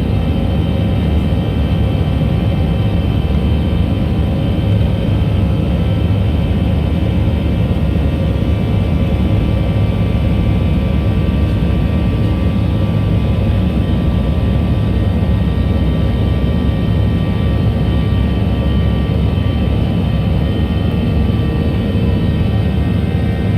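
Steady cabin noise inside a Boeing 737-700: a constant low rumble with faint high whining tones laid over it, with no change in level.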